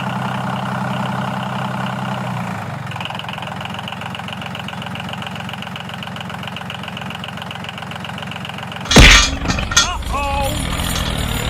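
A small motor running steadily, its tone shifting about two and a half seconds in; about nine seconds in, a loud sharp knock followed by a few short gliding tones.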